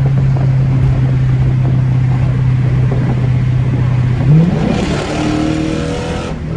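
Straight-piped Dodge Charger R/T's Hemi V8 droning steadily under throttle. About four seconds in the revs jump sharply, a downshift, and the exhaust pulls hard at higher revs before easing off near the end.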